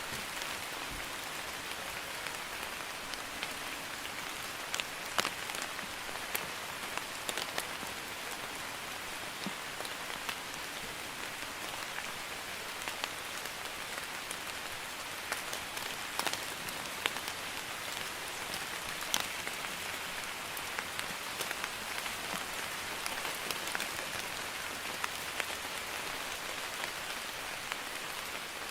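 Steady drizzle, a light rain hissing evenly, with scattered louder drops tapping sharply on a surface.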